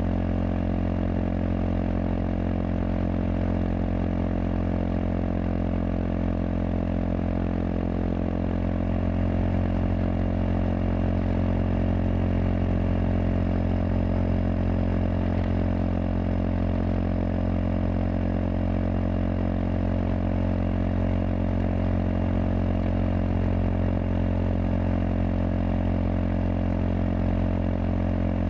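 Kawasaki KLX230SM's air-cooled single-cylinder four-stroke engine running through a K-Factory FRC slip-on silencer, holding a steady note that gets slightly louder about a third of the way in.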